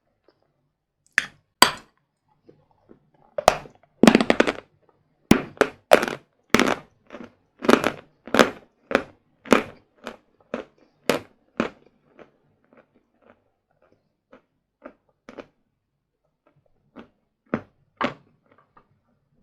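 Close-up crunching of a hard bar of sawn Vatutin chalk being bitten and chewed: a run of sharp dry cracks, dense and loud for the first ten seconds or so, then sparser, fainter crunches.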